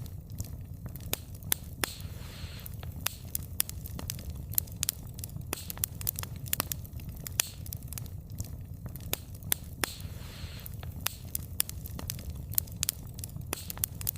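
Wood fire burning, with irregular sharp pops and snaps of the logs over a low steady rumble. A soft hiss rises briefly twice.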